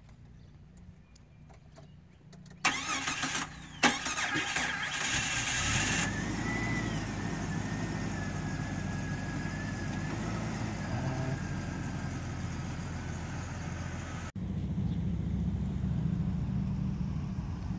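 Jeep Cherokee engine cranked and started a few seconds in, then settling into a steady idle with a faint whine. Near the end the sound cuts to a louder, steady engine.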